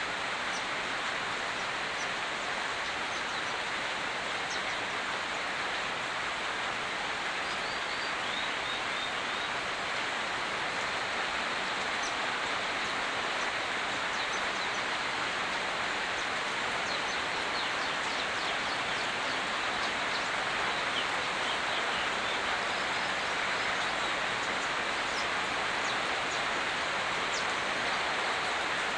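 Steady rain, an even hiss, with a short run of faint bird chirps about eight seconds in.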